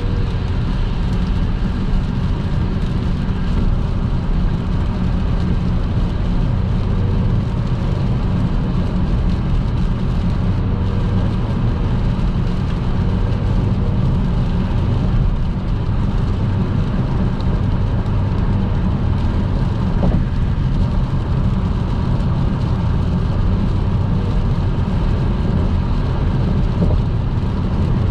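Car driving at motorway speed in the rain: a steady low drone of engine and tyre noise, with tyres hissing on the wet road.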